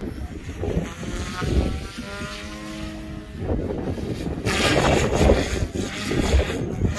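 Goosky S2 electric RC helicopter's motor and rotor whine, holding a steady pitch for a second or so in the middle, with gusts of wind buffeting the microphone, loudest a little past halfway.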